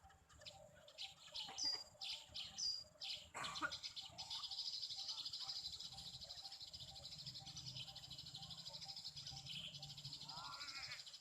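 Small birds chirping: a few short high chirps a couple of seconds in, then a steady, dense high-pitched chatter.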